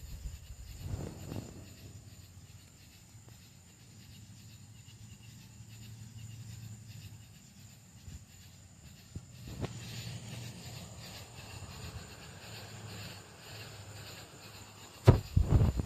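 Outdoor ambience with a low rumble and a faint steady hiss, a soft knock about a second in, and a sharp loud knock near the end.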